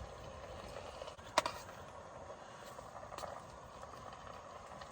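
A few sharp clicks of a metal utensil against cookware, the loudest about a second and a half in, over a steady low hiss.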